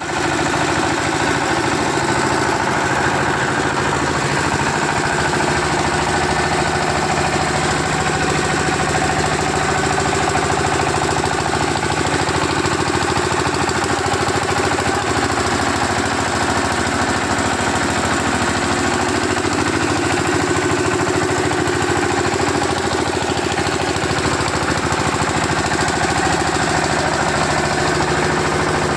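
A new diesel engine running at a steady speed with a fast, even clatter.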